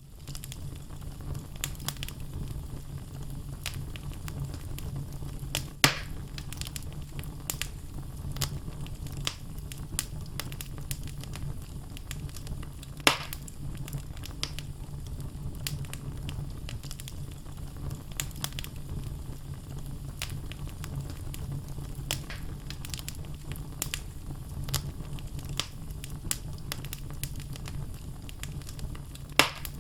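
Wood logs burning in a fireplace, crackling and popping continuously over a steady low hum of the fire. Three louder pops stand out, about six and thirteen seconds in and near the end.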